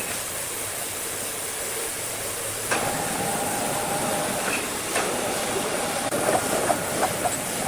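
Sawmill machinery running with a steady rushing noise. About three seconds in, a steady humming tone joins, and a few short knocks come near the end.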